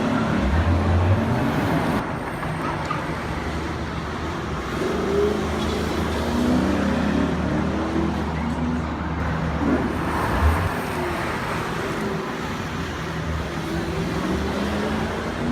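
Lexus GS F's 5.0-litre V8 engine and exhaust running at a fairly steady pace, without a big rev-up, with faint voices over it.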